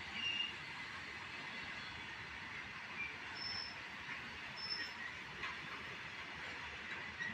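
Train running along the track at a station, a steady rail rumble and hiss with a few short high squeaks.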